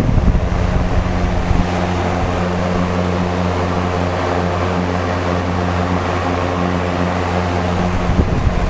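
B&Q five-bladed box fan running on its lowest speed: a steady whir of moving air over a low hum. The hum sounds like one of the vent exhaust fans found in some stores. Near the start and again near the end, the fan's airflow buffets the microphone in low gusts.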